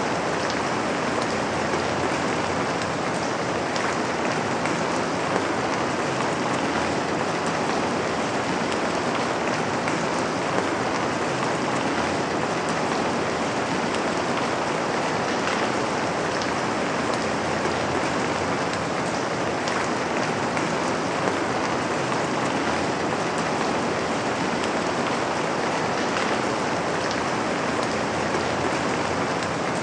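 Steady rain falling on a window: an even hiss of rain with occasional sharper individual drops.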